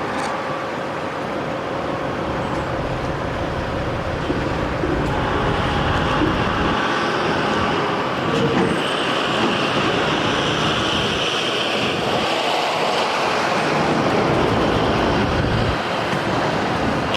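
Heavy semi truck running, a steady engine-and-road noise that grows a little louder about four seconds in, with a higher hiss laid over it for several seconds in the middle.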